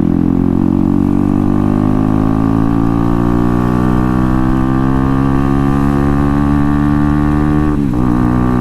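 Bajaj Pulsar NS125's single-cylinder engine breathing through an aftermarket SC Project exhaust while the motorcycle is ridden, loud and held in one gear with the revs rising slowly. Near the end the note drops briefly and picks up again, as at a gear change.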